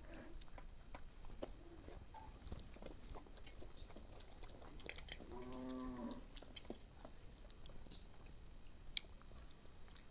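Faint sounds of people eating rice by hand: chewing with light clinks and taps on steel plates, one sharper click near the end. A brief low hum, about a second long, comes a little past the middle.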